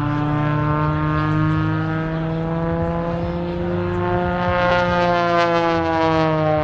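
Propeller aerobatic plane's engine running hard in flight, its pitch rising slowly and then falling away near the end as it passes.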